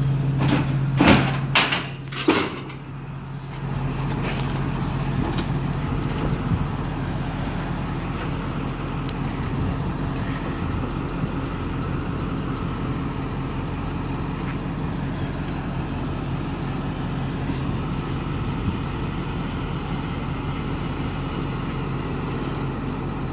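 Four sharp knocks in the first two or three seconds, likely the truck's tailgate latches being worked. After a brief lull, the truck runs with a steady, even mechanical noise.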